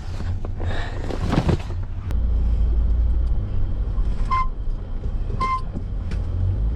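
Vehicle engine and tyres on snow making a steady low rumble as the truck moves off, starting about two seconds in after some brief rustling noises. Two short high chirps sound over it about a second apart.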